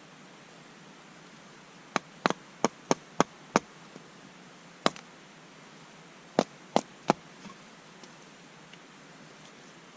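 A series of about ten sharp clicks or knocks in quick, irregular runs, over a faint steady hiss.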